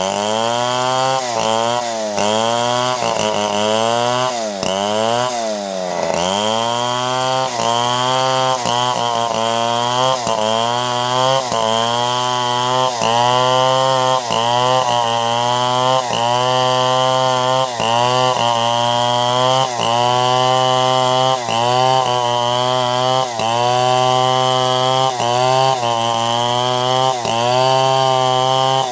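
Chainsaw running under load while ripping a log into planks, its engine note falling and rising again over and over, at first slowly and then about once a second.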